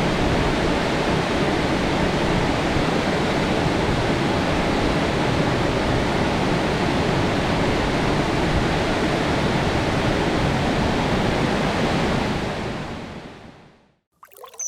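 Steady rushing of a broad, slanting waterfall about 7 m high, a continuous even wash of water noise that fades out near the end.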